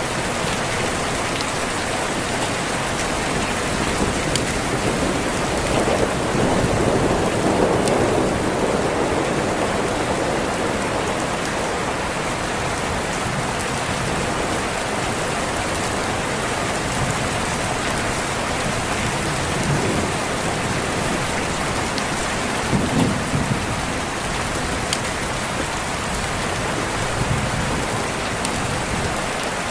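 Steady rain falling, with distant thunder rolling in low and swelling about six seconds in, and a shorter rumble a little past twenty seconds.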